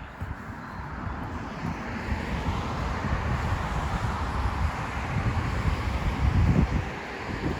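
A vehicle passing: a rushing noise that builds over several seconds and fades near the end, with wind buffeting the microphone.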